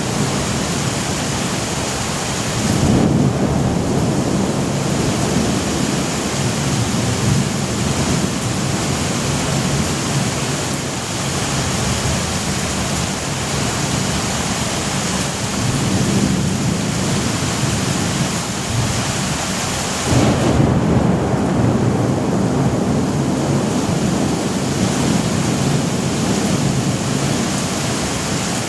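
Thunderstorm: steady heavy rain with rolling thunder, the rumble swelling up about three seconds in and again about twenty seconds in.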